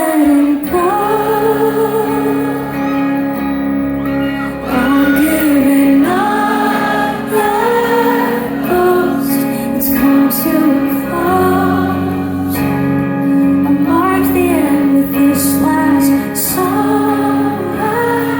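Live pop music: a woman singing a melody over a band with sustained low chords.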